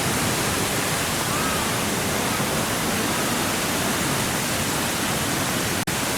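Steady, even rushing noise, with a momentary dropout near the end.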